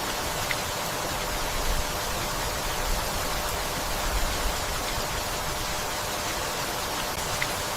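Steady rain falling, an even hiss, with a couple of single drops ticking, one about half a second in and one near the end.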